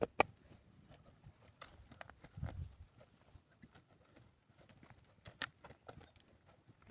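A sharp knock just after the start, then scattered light clicks and taps with a soft low thump about two and a half seconds in.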